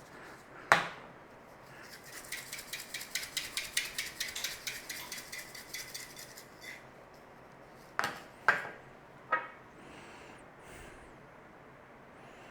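A spice shaker shaken over raw chicken, rattling in quick, even shakes of about five a second for some four seconds, then three sharp knocks as hard containers are set down.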